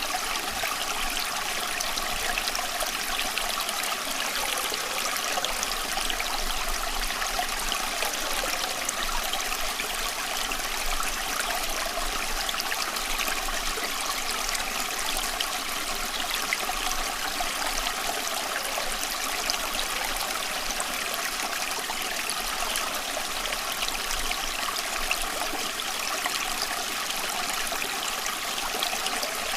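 Steady running water, trickling and babbling as a continuous, even hiss of many small splashes.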